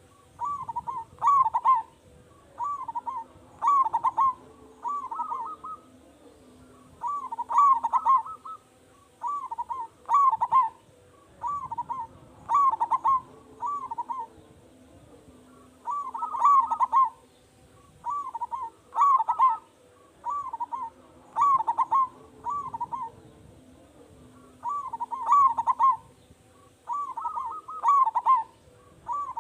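Zebra dove (perkutut) cooing in full song: short phrases of several quick coos repeated roughly every one to two seconds.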